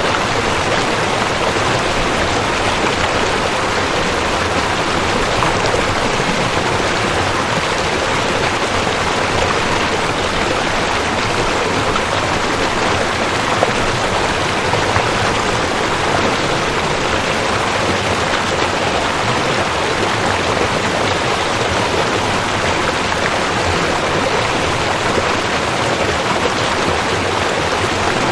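Rushing creek: water running fast over rocks, a steady, even rush with no change or pause.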